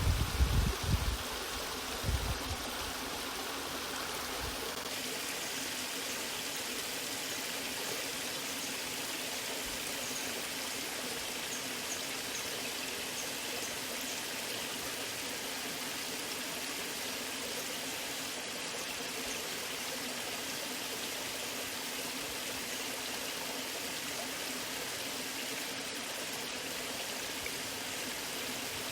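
Waterfall: the steady rush of falling water, with a few low thuds and rumbles in the first couple of seconds.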